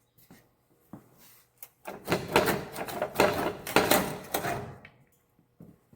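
Rusted tractor exhaust parts being worked loose by hand: a few light knocks, then about three seconds of metal scraping and clanking with many sharp strokes.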